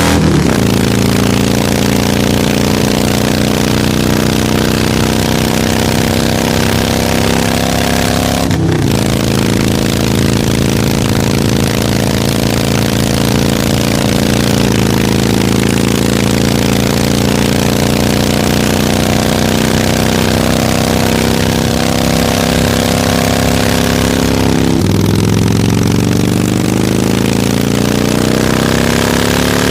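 Harley-Davidson motorcycle's V-twin engine under way, shifting gear just after the start and again about eight and a half seconds in. It holds a steady pace for a long stretch, then the revs climb again over the last five seconds.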